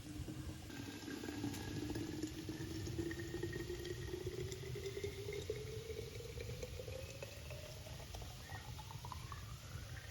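Liquid being poured into a jar, with a pouring tone that rises steadily in pitch as the jar fills.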